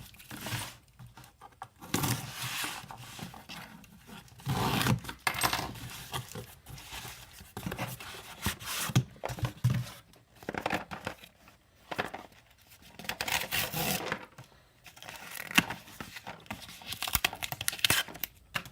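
Packaging being torn open and handled: irregular bouts of tearing and crinkling, with small clicks and short pauses between them.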